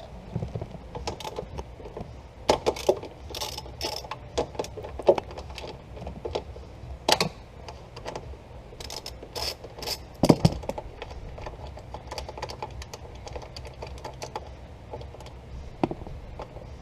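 Hand socket ratchet clicking as the 10 mm bolts holding a car's airbag crash sensor are backed out, with irregular sharp clicks and a few louder knocks of tools and parts.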